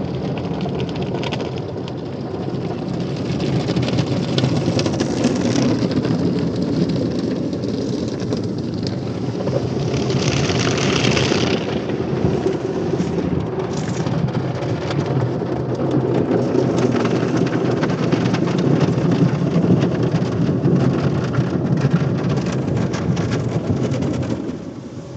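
Automatic car wash tunnel at work: a steady rush of water spraying and drumming on a car. It brightens into a sharper hiss around ten seconds in and falls away just before the end.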